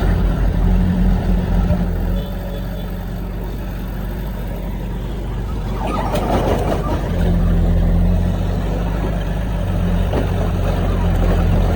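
Heavy diesel engine of earthmoving machinery running steadily, louder at first, easing, then working harder again. About six seconds in there is a burst of rough noise.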